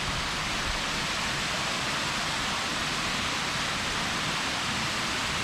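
Small waterfall splashing into a shallow pool: a steady, even rush of falling water.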